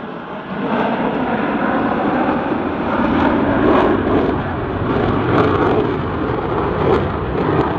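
Jet noise from an F-15 Eagle's twin Pratt & Whitney F100 afterburning turbofans as it flies its display, a steady, loud rushing sound.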